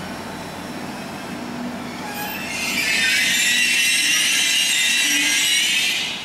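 Passenger train at a station platform giving off a loud, steady high hiss that sets in about two and a half seconds in and stops abruptly near the end, over a low rumble of railway noise.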